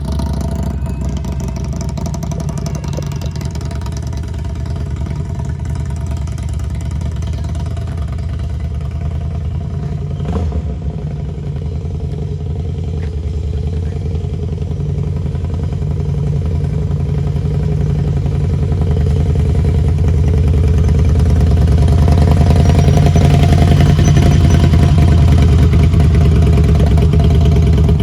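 Harley-Davidson Street Glide's V-twin engine running steadily, growing louder from a little past halfway through, with a brief knock about a third of the way in.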